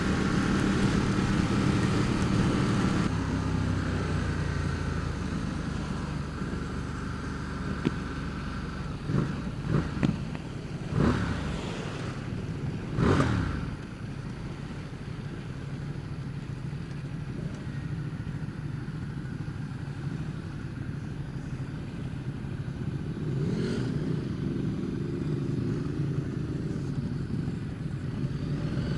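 Ducati XDiavel's 1262 cc L-twin engine running under way, loudest in the first few seconds and pulling again near the end, over a steady rush of wind and road noise. About ten to fourteen seconds in there are a few brief swells that rise and fall in pitch.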